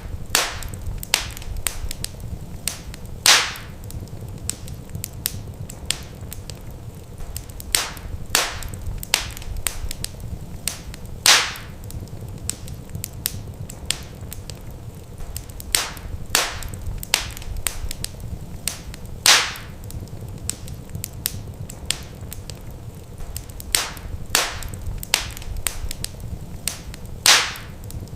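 Wood fire crackling in a fireplace: a run of irregular sharp pops and snaps, a louder pop every eight seconds or so, over a steady low rumble.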